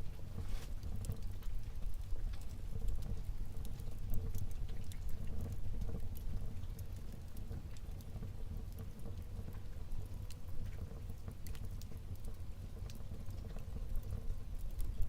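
Wood fire burning in a fireplace, with irregular crackles and pops over a steady low rumble of the flames.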